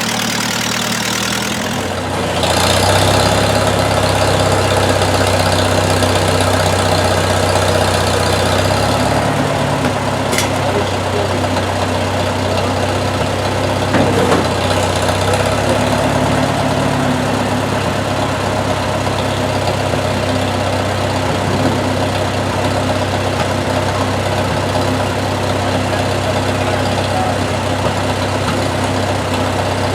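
An engine running steadily, getting louder about two seconds in.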